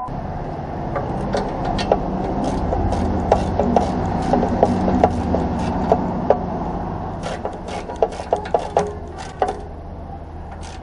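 A steady low drone with many scattered sharp clicks and knocks over it.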